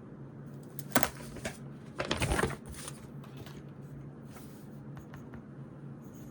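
Desk sounds of studying: a sharp click or tap about a second in, then a brief rustle of paper being handled, over a faint steady low hum.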